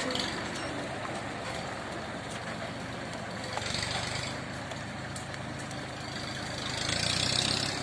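Tractor engine running steadily under a haulage load, with a high hiss that swells twice, about four seconds in and near the end.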